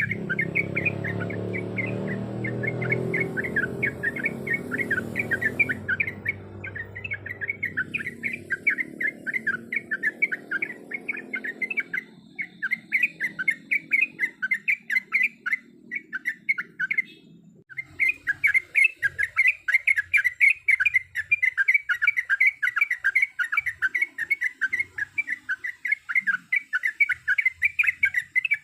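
Yellow-vented bulbul (trucuk) singing a long, fast, rolling run of short, rapidly repeated chattering notes, with a brief break about seventeen seconds in. A low rumble sits under the first several seconds and fades out.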